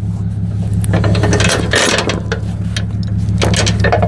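Steel tie-down chain clinking and rattling as it is pulled down through a trailer pocket, in two bursts of clicks, the second near the end, over a steady low hum.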